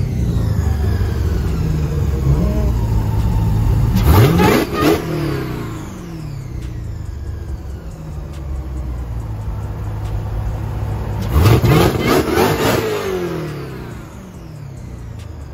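Jeep Grand Cherokee engine idling and revved twice in place, a few seconds in and again about three-quarters of the way through. Each time the pitch climbs quickly and then drops back to idle.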